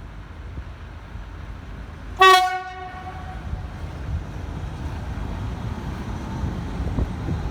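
VL11.8 electric locomotive sounding its horn in one short blast about two seconds in. After the blast, the low rumble of the approaching freight train slowly grows louder.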